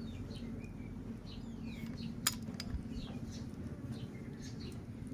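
Small birds chirping over and over in short, high, falling chirps, about three or four a second, over a low steady hum. A single sharp click sounds a little over two seconds in.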